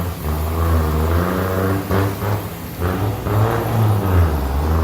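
Diesel pickup truck engine running at a loud, rough idle, its revs rising and falling a few times.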